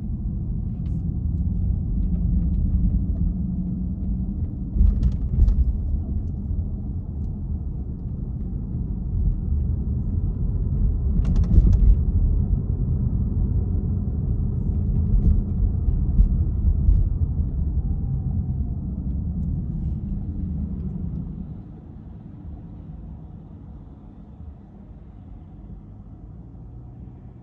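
A car driving, heard as a steady low rumble of road and engine noise with a few brief knocks, which drops to a quieter rumble about 21 seconds in.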